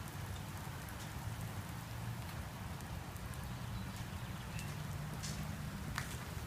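Light rain falling steadily, with a few sharp ticks of drops hitting a surface.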